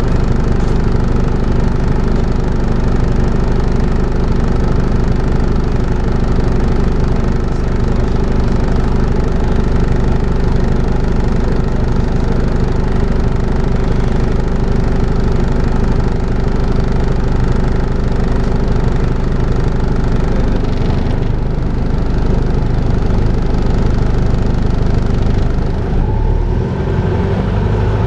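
Volvo B5LH hybrid bus's four-cylinder diesel engine running steadily, with the vacuum-cleaner-like drone that enthusiasts call 'hoovering'. The note shifts twice, about three-quarters of the way through and again near the end.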